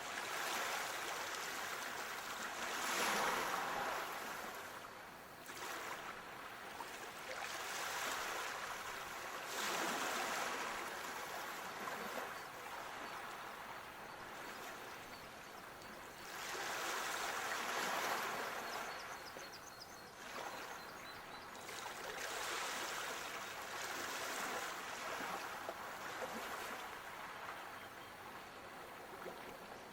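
Waves washing in and out, the rush swelling and fading every five to seven seconds. A brief run of faint high chirps comes about two-thirds of the way through.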